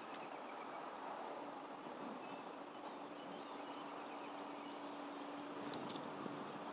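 Faint creekside background noise with a steady low hum, and a bird giving a quick series of short, high chirps in the middle.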